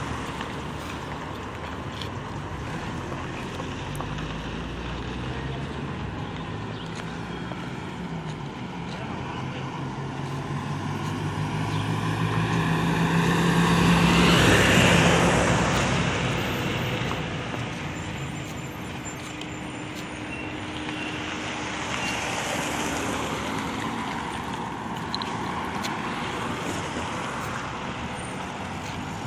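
Road traffic passing along a city street. About halfway through a city bus passes close by, its engine drone building up to a loud peak and then fading away, with smaller vehicles going past later.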